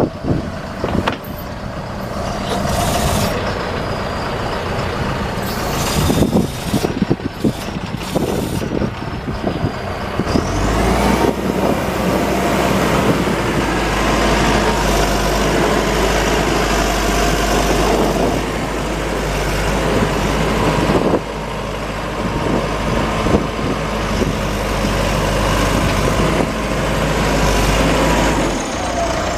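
John Deere 310SJ backhoe loader's diesel engine running, with clanks and knocks in the first several seconds. About ten seconds in, the engine settles into a louder, deeper steady drone that carries on until near the end, with a thin whine gliding up and down over it.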